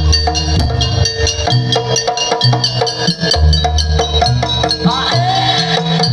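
Live jaranan music: an ensemble of drums and sharp clicking percussion in a steady, busy beat over ringing metal tones, with a wavering melodic line about five seconds in.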